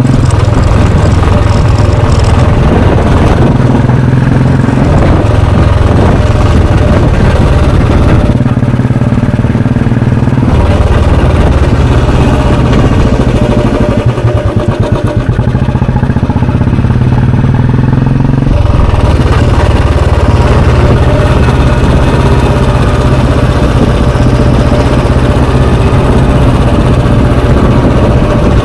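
Royal Enfield Bullet 350's air-cooled single-cylinder four-stroke engine and exhaust, ridden under way with a steady thump. The engine eases off about 8 seconds in, pulls again, then drops to a slow beat from about 14 to 18 seconds before picking back up.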